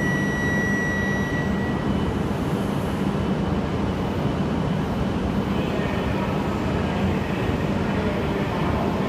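E5-series shinkansen pulling slowly out of the station: a steady low rumble of the running train, with a high whine in the first two seconds that fades away.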